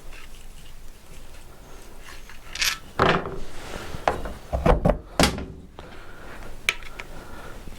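Hard knocks and thuds of work on a dismantled Benelli motorcycle engine on the bench: a cluster of about half a dozen in the middle and one last sharp tap near the end.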